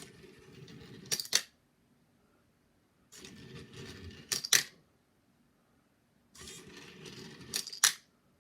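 Arduino Skittles colour sorter cycling: a stepper motor turns the distribution plate with a short buzzing whir, then two sharp clicks follow. The cycle repeats three times, about three seconds apart.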